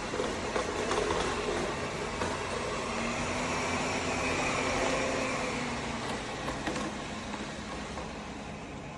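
Airzeen R7 robot vacuum cleaner running: a steady whir from its suction motor and brushes, with a faint wavering hum, growing a little quieter near the end.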